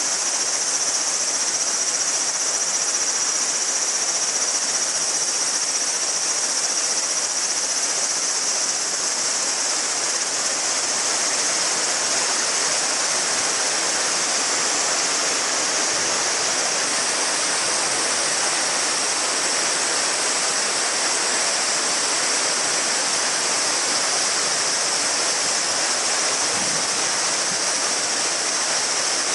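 Shallow mountain river babbling steadily over stones, with a chorus of summer cicadas holding a continuous high buzz above the water.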